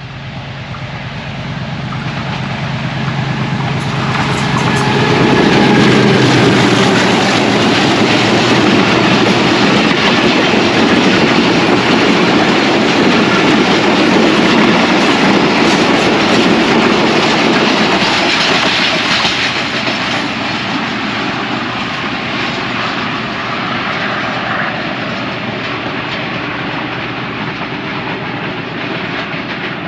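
Diesel-electric locomotive hauling a passenger express approaches and passes close by. Its steady engine tone gives way to the loud rolling noise of the coach wheels on the rails, which peaks about six seconds in and fades slowly as the last coaches go by.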